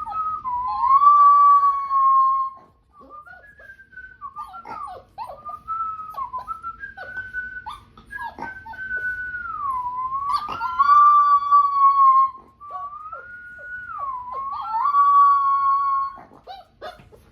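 Six-week-old Rottweiler puppy howling: long, wavering high notes with short whimpering cries between. The longest held howls come about a second in, near ten seconds and near fifteen seconds.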